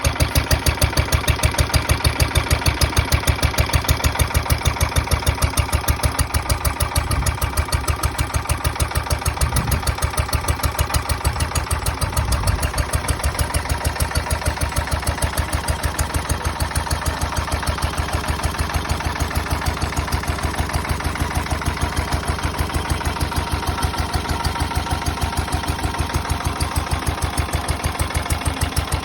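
Ruston Hornsby PB 1½–2 hp single-cylinder stationary engine running steadily, its exhaust beating in an even, rapid rhythm.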